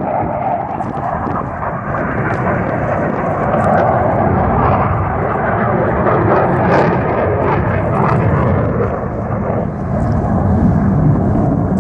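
Jet roar of Blue Angels F/A-18 Hornets flying overhead: a steady, loud rushing roar that swells slightly a few seconds in and holds.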